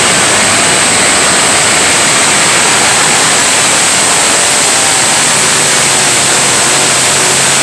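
Competition pulling tractor at full throttle hauling the weight-transfer sledge down the track: very loud, a steady rush of noise without a break.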